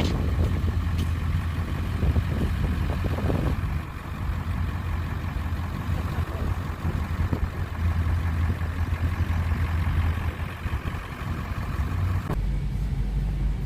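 Motor vehicle engine running steadily, a low rumble under outdoor background noise.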